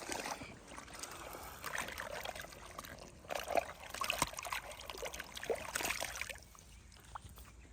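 Water splashing and sloshing in irregular bursts with a few sharp knocks, quieter near the end.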